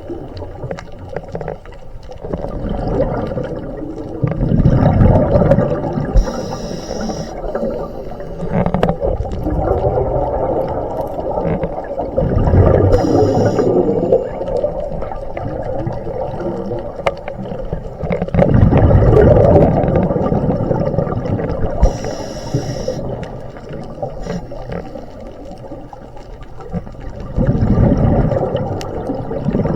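Scuba diver breathing through a regulator underwater: a short hiss of inhaled air every several seconds, each followed by a long, loud bubbling rumble of exhaled bubbles.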